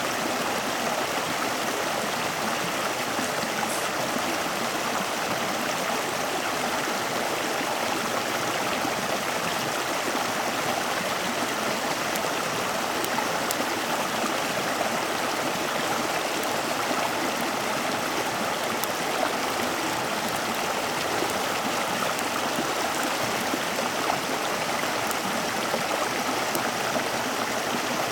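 Steady rushing of running water, like a stream, with a few faint scattered clicks.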